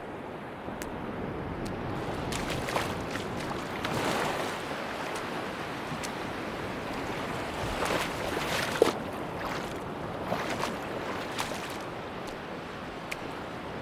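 Sea waves washing onto a beach, a steady rush that swells twice, with a few short faint clicks, the sharpest about two thirds of the way through.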